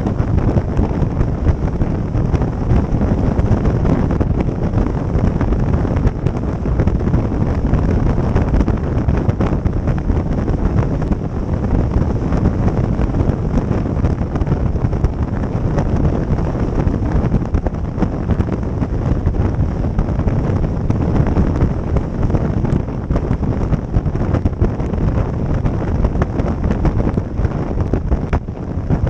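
Heavy wind buffeting the microphone on a moving motorboat, over the boat's motor and water rushing past the hull.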